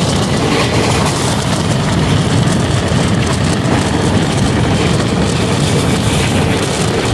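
Pakistan Railways rail car running at speed, heard from an open window: a loud, steady rumble of wheels on the rails mixed with the rush of passing air.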